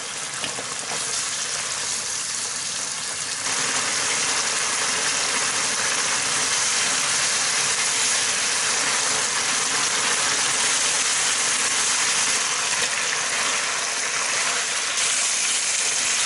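Sliced pork, leeks and gochujang sauce sizzling in a nonstick frying pan: a steady frying hiss that gets louder about three and a half seconds in.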